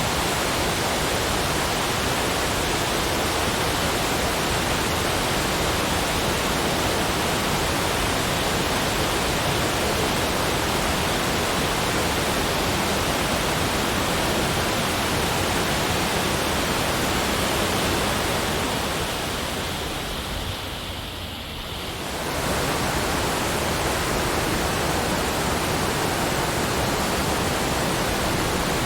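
Steady, even rushing noise spread across all pitches, briefly fading down and back up about twenty seconds in.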